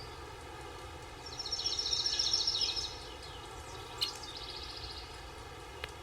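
Forest ambience under a steady background hiss, with a songbird's rapid trill about a second in and a short sharp call followed by a fainter trill about two-thirds of the way through.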